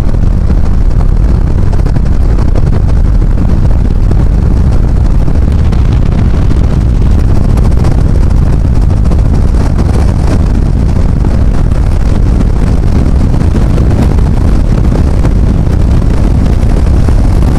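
Loud, steady rush of wind buffeting the microphone, mixed with road noise from a car driving fast.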